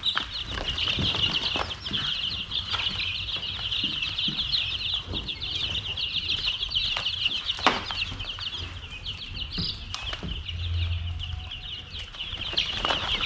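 A brooder full of young chicks peeping constantly in a dense, high chorus of short chirps, with scattered light knocks and rustling among them.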